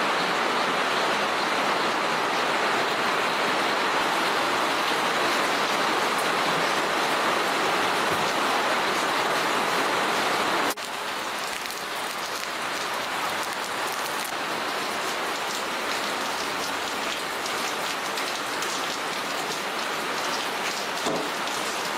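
Steady rush of running, splashing water. About halfway through it cuts to a slightly quieter, pattering splash.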